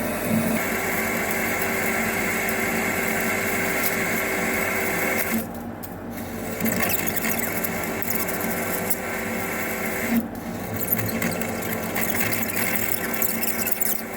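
Metal lathe turning a steel pin, a button insert tool cutting through the weld that holds the pin's head plate on, an interrupted cut. The steady cutting noise dips briefly twice, about five and a half and ten seconds in.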